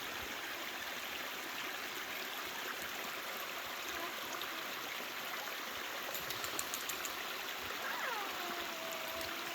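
Creek water running steadily, an even rushing hiss. Near the end a faint call slides down in pitch and levels off.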